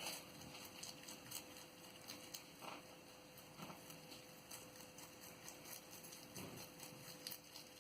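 Pet rabbit chewing parsley: faint, rapid crunching and nibbling.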